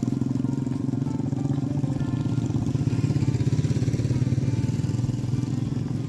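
A small engine running steadily at a constant speed, with a rapid, even exhaust pulse.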